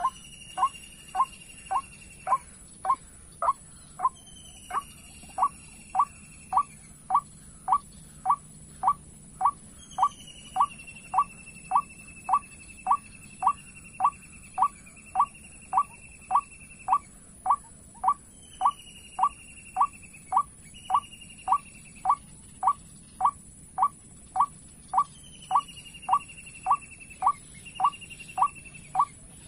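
White-breasted waterhen lure call played over and over, short notes repeating evenly a little under twice a second. Behind it a steady high insect buzz, and every few seconds a higher drawn-out tone that falls slightly.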